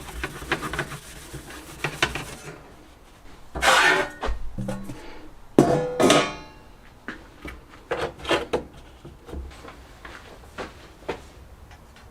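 Hand work at a workbench: a run of short rubbing strokes, then two louder scraping strokes about four and six seconds in, followed by light knocks and clicks of parts and tools being handled.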